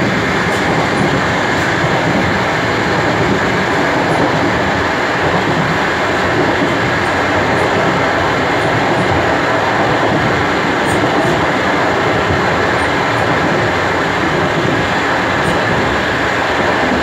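DR1A diesel railcar running at speed: a steady, loud rumble of wheels on rails with its diesel engine noise.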